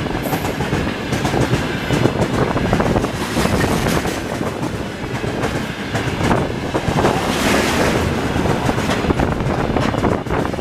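Freight train of tank cars rolling past at speed, steady rumble with wheels clattering over the rail joints.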